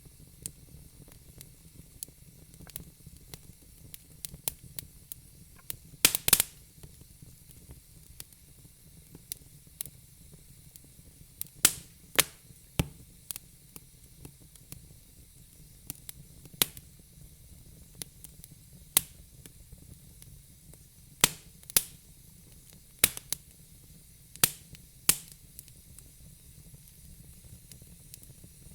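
Wood fire in a fire pit crackling: irregular sharp pops and snaps over a faint steady hiss, with a loud cluster of pops about six seconds in.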